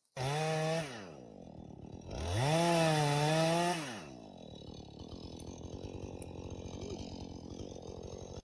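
Chainsaw engine starting loud and dropping back, then revving up again for about two seconds before settling to a lower, steadier run; it cuts off near the end.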